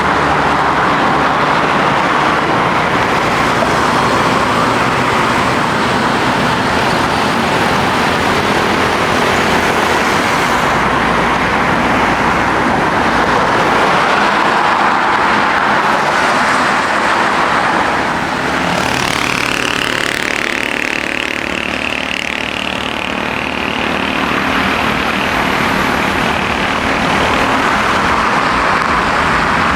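Airbus A320 jet engines running loudly and steadily, with a high whine that rises sharply about two-thirds of the way through and then holds for a few seconds.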